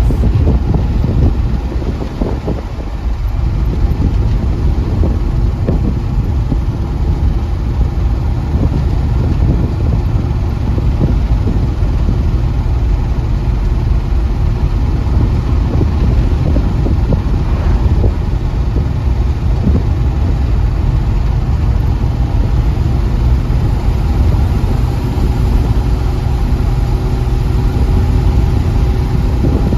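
A car driving on the road: a steady, loud rumble of engine and road noise.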